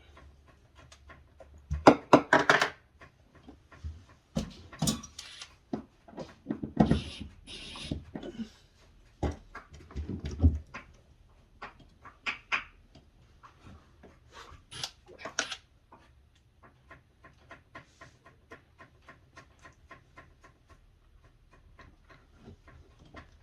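Hand work on refrigerator freezer panels and parts during reassembly: clattering knocks and rattles of handled parts in the first half, then a long run of light, evenly spaced clicks, about two or three a second.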